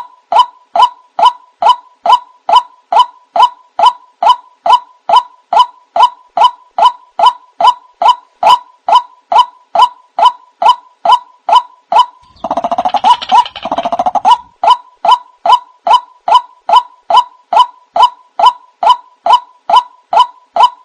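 White-breasted waterhen (ruak-ruak) lure call: short croaking notes repeated evenly, about three a second. About twelve and a half seconds in, a denser, harsher run of calls lasts nearly two seconds before the even repeats resume.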